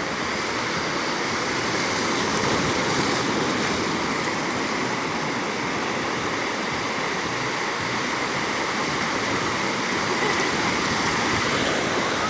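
Ocean surf washing onto a beach: a steady rush of waves that swells slightly and eases.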